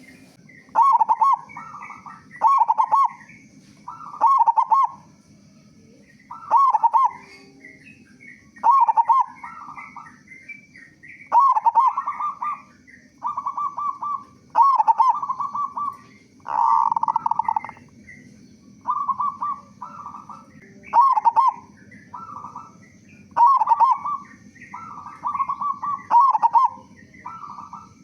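Local zebra dove (perkutut) cooing over and over: a steady run of short, loud, bubbly coo phrases, one every second or two, in the full-voiced style valued as a lure call. Faint high chirps from other small birds sound behind.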